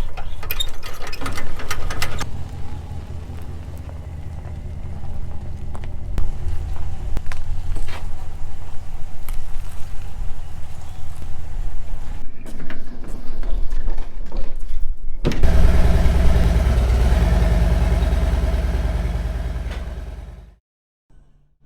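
Pickup truck engine running, with scattered clicks and knocks over it; about fifteen seconds in it gives way to a louder, steadier engine sound that cuts off suddenly near the end.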